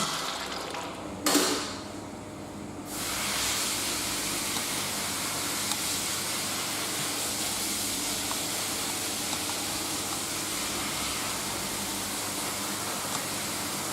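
A Nissan QG16DE 1.6-litre 16-valve engine on a test stand stops running. About a second later there is one sharp thump, then a steady hiss that holds evenly.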